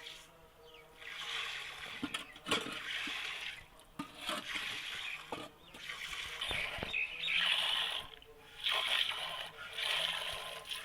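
Hand-milking: jets of milk squirting into a pail in repeated hissing spurts, roughly one a second, with a few light knocks.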